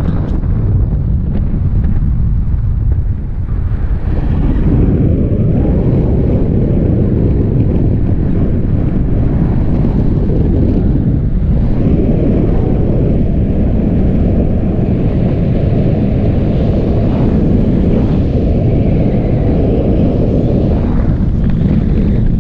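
Airflow buffeting the microphone in paraglider flight: a steady low rush of wind noise, a little louder from about four seconds in.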